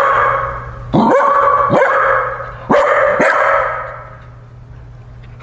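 Dog barking repeatedly at a newly introduced cat, about five sharp barks in quick succession, then falling quieter near the end.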